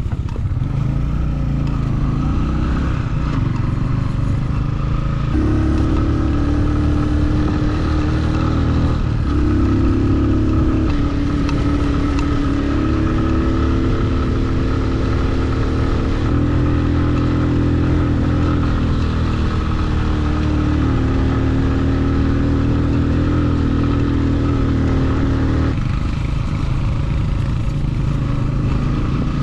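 Motorcycle engine running under way, its pitch stepping up and down several times as the rider changes speed or gear.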